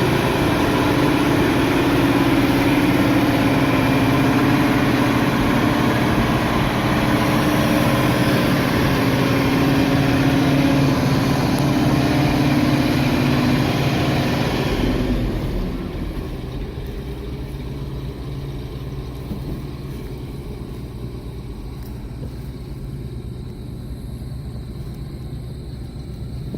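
1976 International Harvester grain truck's engine running at raised speed with a strong steady drone. About halfway through it drops back to a quieter, steady idle.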